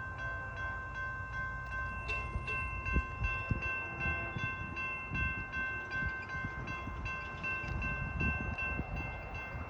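Railroad grade-crossing bell ringing over and over, about two strikes a second, over a low rumble.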